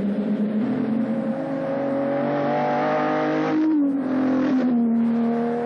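Ferrari GTO's V12 engine pulling hard under acceleration, its note rising slowly, then dropping at a gear change about three and a half seconds in before climbing again.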